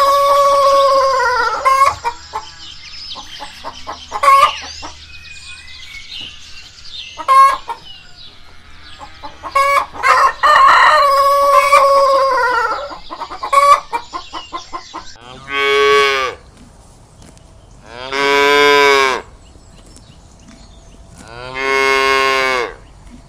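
A rooster crowing twice, a long call at the start and another about ten seconds in, with short clucks between. In the last third a cow moos three times, each moo about a second long.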